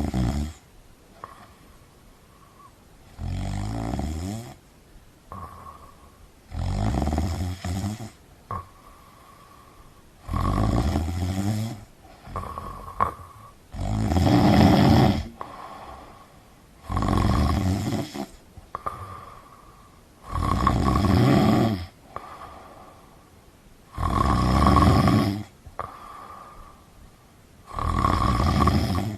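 Steady, regular snoring: a loud snore about every three and a half seconds, each lasting about a second and a half, with a softer, higher-pitched breath between snores.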